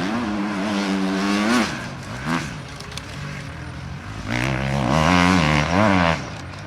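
Enduro dirt bike engines revving hard, the pitch rising and falling as the throttle is worked, in two loud stretches: one at the start that fades about a second and a half in, and another from about four to six seconds in, with a short blip of throttle between.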